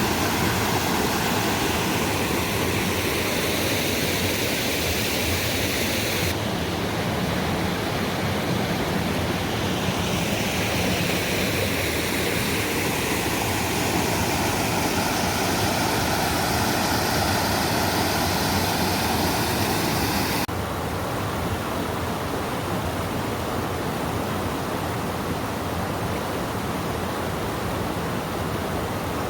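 Steady rush of running water, a creek or falls. Its tone changes abruptly about six, ten and twenty seconds in.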